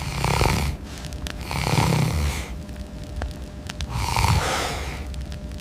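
Slow, rasping breaths like snoring, one swell about every two seconds, with scattered small clicks between them.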